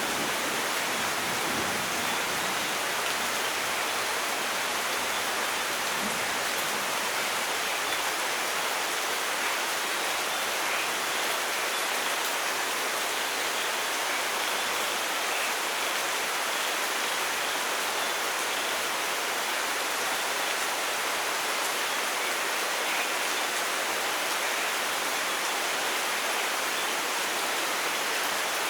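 Steady rainfall, an even hiss of drops with no change in level.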